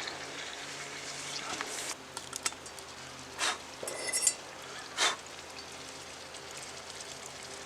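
80-20 ground beef frying in a pan with a steady sizzle, browning. A few short clinks and scrapes of a utensil against the pan come in the middle.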